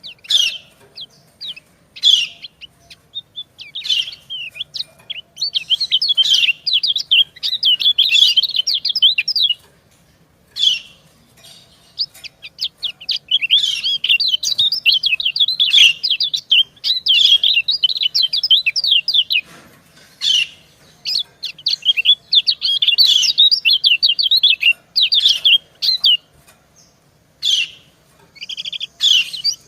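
Female yellow white-eyes (kecial kuning) giving their 'ciak' calls: short high chirps, a few single ones, then dense runs of rapid chirping lasting several seconds with short pauses between. This is the female's call that draws out and excites males.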